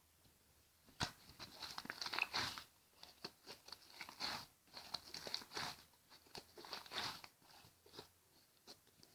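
Slime being squeezed and worked by hand, making irregular crunchy crackles and clicks that start about a second in.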